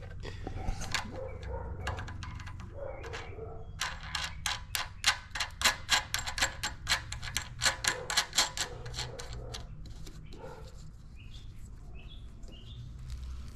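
A rapid, regular run of sharp clicks, about five a second, from about four to nine seconds in, amid lighter handling knocks as a part is refitted on a small-engine pressure washer.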